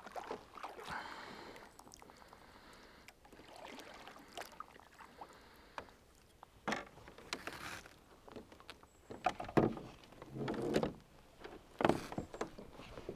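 Kayak on the water: quiet, irregular splashes of water with occasional light knocks against the hull, strongest in the second half.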